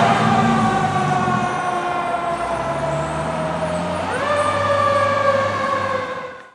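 Federal Q mechanical siren on a 1998 KME fire engine, winding down slowly in pitch. About four seconds in it is spun up again with a quick rise, then winds down once more. The sound cuts off at the very end.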